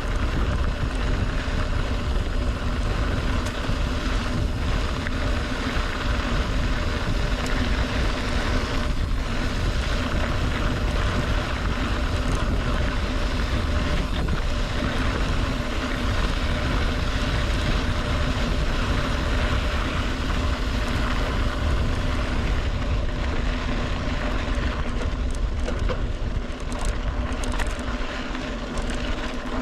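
Strong wind buffeting the microphone of a camera on a moving mountain bike: a steady, loud rumbling rush with no break.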